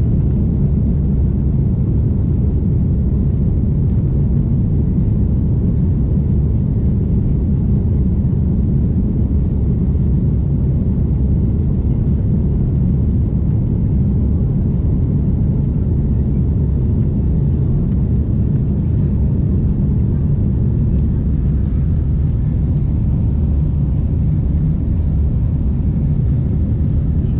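Steady low rumble of an airliner's cabin noise, engines and airflow heard from inside the passenger cabin, unchanging throughout.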